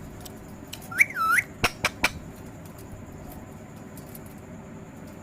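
Pet parrot giving one short whistle about a second in, its pitch dipping and rising again, followed by three sharp clicks; a low steady hum underneath.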